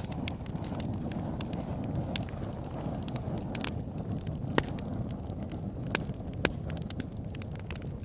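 Wood fire burning in a fireplace: a steady low rumble of flames with irregular sharp crackles and a few louder pops from the burning logs.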